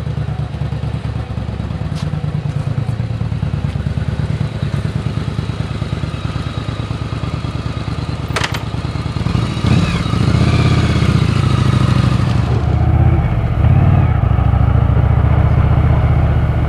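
Motorcycle engine running at an even, pulsing idle, then revving and getting louder about ten seconds in, its pitch rising and falling.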